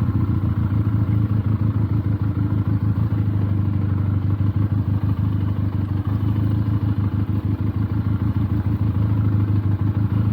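Benelli TNT 300's parallel-twin engine running at low, steady revs while the motorcycle is ridden slowly over rough ground.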